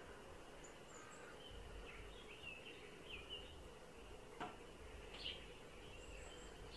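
Quiet outdoor ambience with faint, scattered bird chirps and short warbled notes, and a single sharp click about four and a half seconds in.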